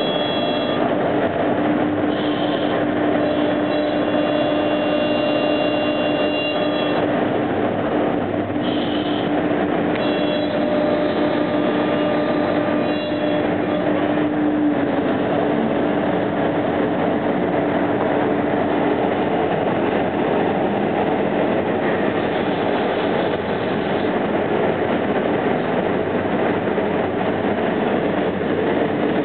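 CNC router spindle running and cutting: a steady, loud machine noise with a held hum, whose pitch dips slightly about halfway through.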